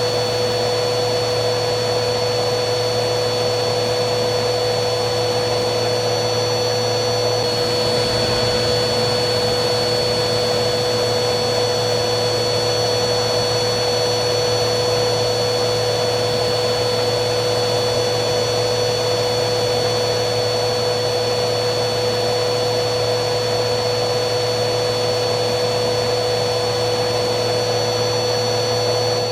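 Vacuum cleaner motor running steadily: a constant rush of air with a steady motor whine over it, the pitch shifting slightly about seven seconds in.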